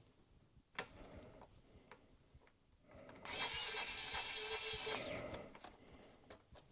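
Screwdriver driving small screws: a few light clicks, then under two seconds of mechanical whirring about halfway through.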